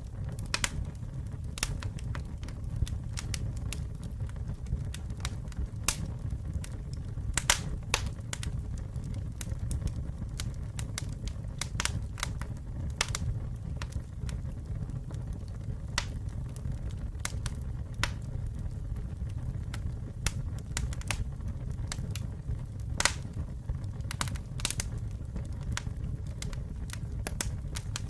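Campfire burning with a steady low rumble and irregular sharp crackles and pops from the burning wood, a few louder pops standing out.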